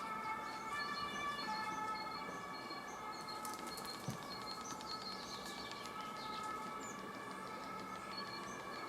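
A two-tone emergency siren alternating steadily between two pitches, with a short burst of rapid wooden clattering about three and a half seconds in, a stork clapping its bill.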